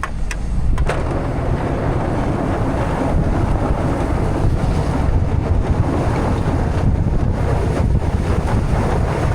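Wind buffeting the microphone: a steady rushing noise, heaviest in the low rumble, with a couple of sharp clicks at the very start.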